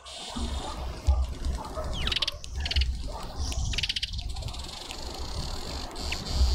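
Small birds giving short, rapid chattering calls, three of them between about two and four seconds in, over a low, uneven rumble.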